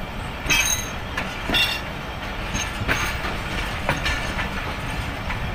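Passenger train's coach wheels rolling on the track as it pulls out of the station, heard close from a coach doorway: a steady rumble with irregular clacks over rail joints and points, and brief high wheel squeals about half a second and a second and a half in.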